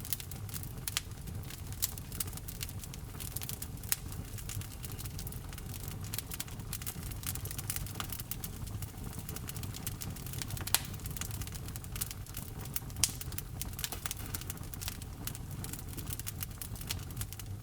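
Fire in a fireplace crackling: irregular sharp pops and snaps over a low, steady rumble of the flames.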